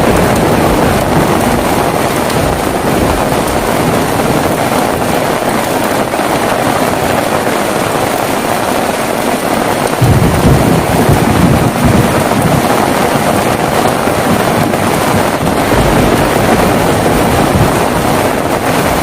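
Heavy rain pouring steadily, joined about halfway through by a low rumble of thunder that rolls on to the end.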